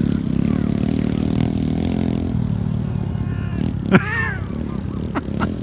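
Small pit bike engines running as the riders go round a lap, the engine note easing off about two seconds in. About four seconds in comes a single sharp knock with a brief high arching sound.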